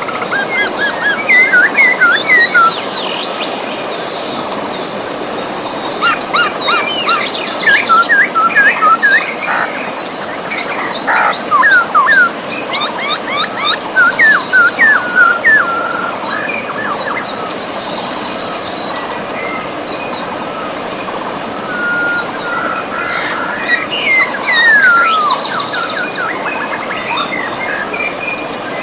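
River water running steadily, with several birds singing over it in bursts of quick chirps, trills and sliding whistles.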